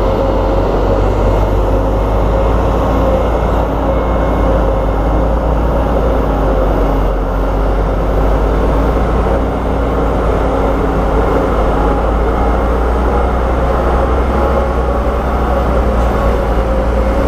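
Heavy diesel earthmoving machinery running steadily at an unchanging pitch.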